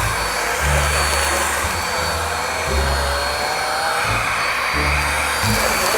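Vacuum cleaner motor running steadily with a thin high whine, starting abruptly, over background music with a heavy bass beat.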